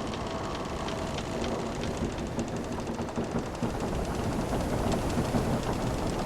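Wooden sailing ship's timbers creaking over a steady wash of ocean waves, with many small ticks and creaks in the first half and a drawn-out low creak.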